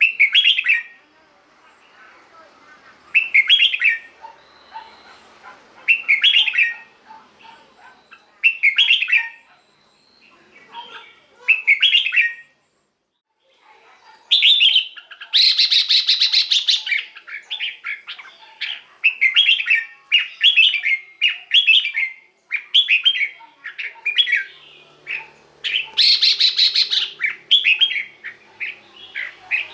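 Red-whiskered bulbul singing: short bright phrases repeated about every three seconds, then, after a brief pause about halfway, a faster run of phrases with two louder, harsher bursts. A faint steady high tone sits underneath.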